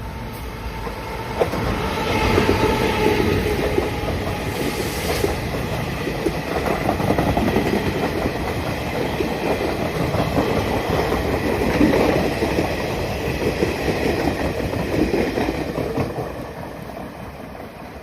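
Taiwan Railways Chu-Kuang Express, a locomotive-hauled passenger train, passing through a station without stopping, its wheels clattering over the rail joints. The rumble swells about a second and a half in, holds steady for most of the pass, and fades near the end.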